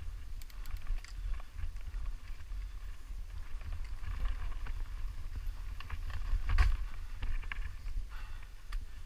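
Bicycle rolling downhill over rough ground: irregular clicking and rattling over a steady low wind rumble on the microphone, with the loudest knock about six and a half seconds in.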